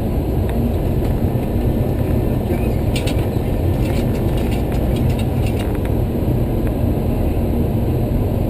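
Steady low rumble in the flight deck of a Boeing 737-300 on the ground after landing, with a short run of light clicks about three seconds in.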